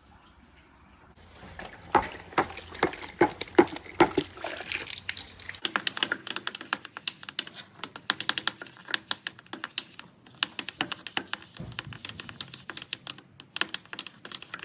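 Rapid, irregular patter of sharp clicks and splashes of water, denser and with a high hiss during the first few seconds, thinning out later.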